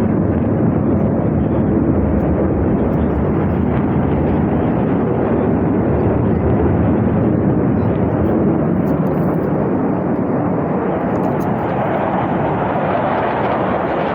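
Loud, steady engine noise of an aircraft flying past, easing a little near the end.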